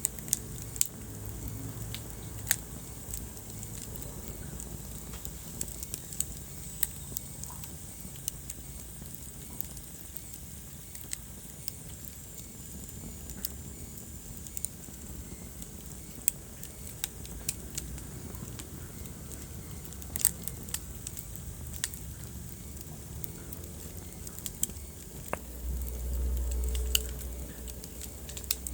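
Wood fire crackling in a fireplace: irregular sharp pops and snaps over a steady low rumble of flame. The rumble swells louder for a second or two a few seconds before the end.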